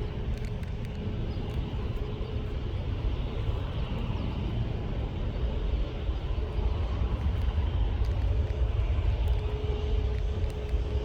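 Jet airliner engines running at a distance: a steady low rumble with a held, even whine, swelling slightly near the end.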